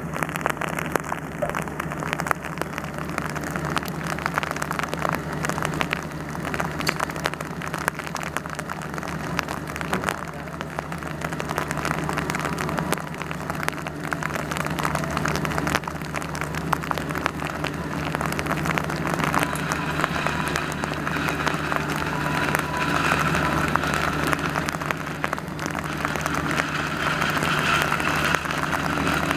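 Steady rain pattering, with a low steady hum beneath it. In the last third, higher held tones rise in level.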